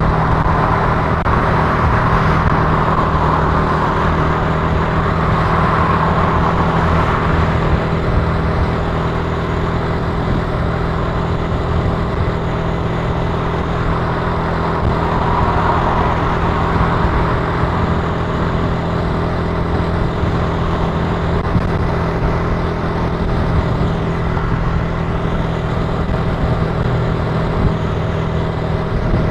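Italika TC300 motorcycle engine running at a steady pace while riding, with wind and road noise over it.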